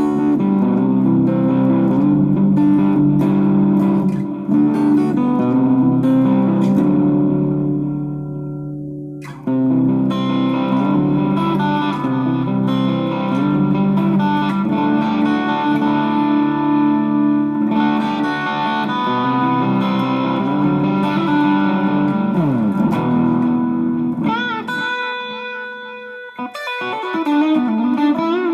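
Electric guitar with a Duncan-style treble bleed circuit (1 nF 102J capacitor) on its volume pot and an Orange Drop 223J tone capacitor, played through an amp with effects: chords and single-note lines. There is a short pause about a third of the way in, a note bent down in pitch later on, and wavering vibrato notes near the end.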